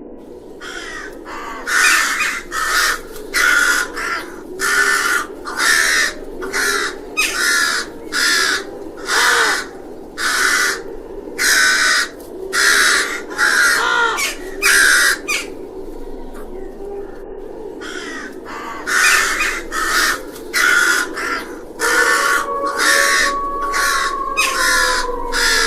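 Crow cawing over and over, loud harsh calls at a little more than one a second, in two long runs with a pause of a few seconds in the middle.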